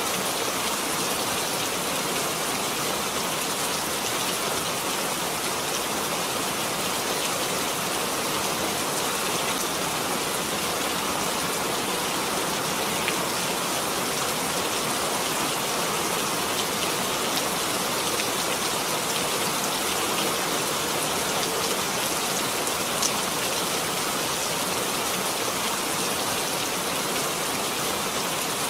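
Steady rain falling: an even, unbroken hiss with a few louder drop ticks scattered through it.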